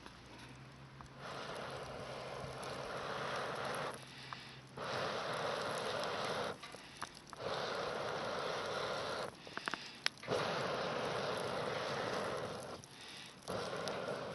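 Someone blowing in long, even puffs, five in a row, each two to three seconds with a short pause for breath between, as when blowing into a campfire to liven the flames.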